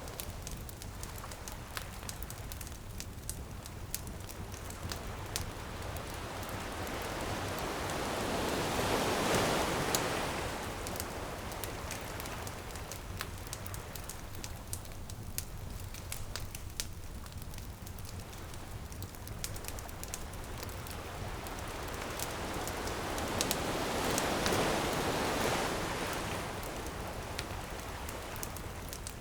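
Ocean waves breaking and washing up the shore, swelling twice about fifteen seconds apart, over the steady crackling and popping of a beach bonfire.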